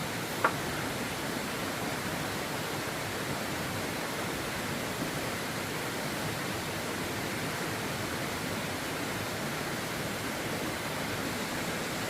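Steady, even rushing noise throughout, with a single sharp click about half a second in.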